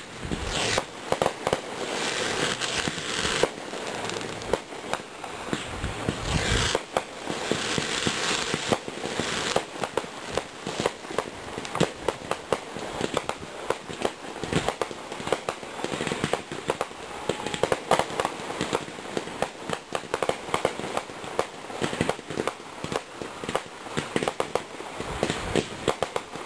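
Fireworks display: a dense, continuous string of popping and crackling bangs. Two stretches of loud hissing run through it, one in the first few seconds and another about seven seconds in.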